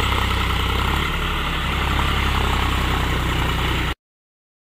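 John Deere 5105 tractor's three-cylinder diesel engine running steadily at a low, even speed. The sound cuts off abruptly near the end.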